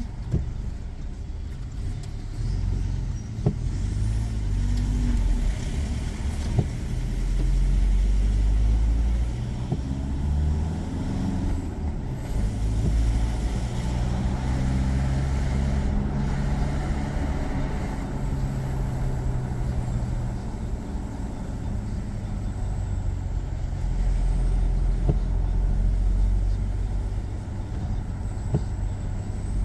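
A road vehicle driving: a steady low engine and road rumble, with the engine note rising and falling several times through the gears.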